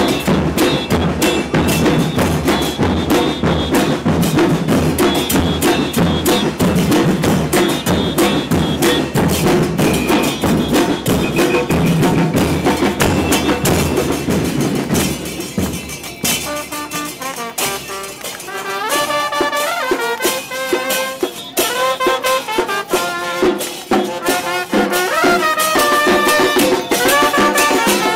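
Live carnival band music: heavy, dense drumming for the first half, then about halfway the drums drop back and a brass melody takes over over lighter percussion.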